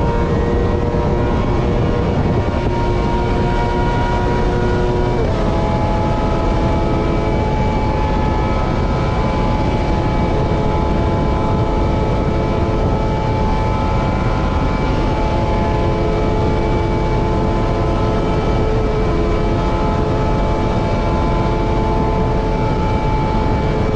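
Superbike engine running at steady high revs, with heavy wind rush. The pitch steps to a new steady note about five seconds in, as at a gear change, and then holds.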